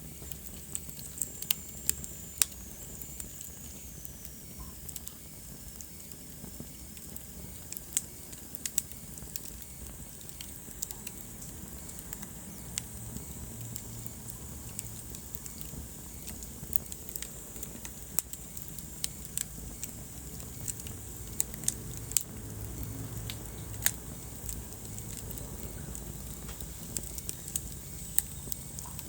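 Wood fire burning in a fireplace: a steady low rumble of flame with frequent, irregular sharp crackles and pops. A faint high whistle slides down in pitch a second or two in.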